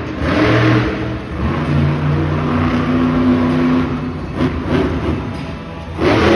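Monster truck engine revving hard, with loud surges near the start and about six seconds in, and a steady high-revving stretch between them.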